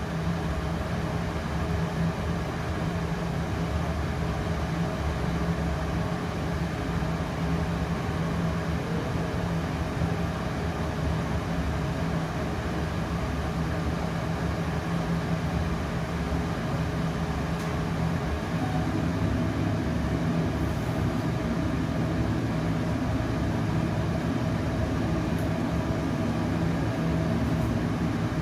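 Trotec Speedy 100 laser cutter running: a steady mechanical hum with a low drone.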